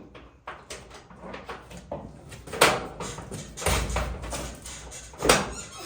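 Clanks and knocks of a steel truck cab door being shifted and adjusted on its hinges, with two sharp louder bangs, one about two and a half seconds in and one near the end.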